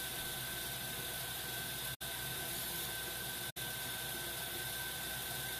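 Steady hiss with a faint high whine and a low hum, the background noise of the stream's audio. It cuts out completely for an instant twice, about two seconds and three and a half seconds in.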